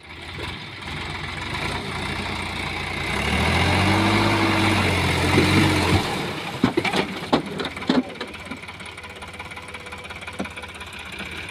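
Sonalika DI 50 RX tractor's diesel engine running. About three seconds in it revs up and runs louder, with a strong low hum, then drops back suddenly at about six seconds. A few sharp knocks follow before it settles to a steady idle.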